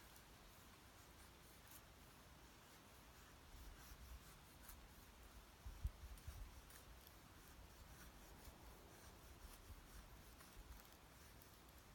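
Faint, irregular scraping strokes of a cheap 100-yen-shop knife blade working against wood, with a soft thump about six seconds in.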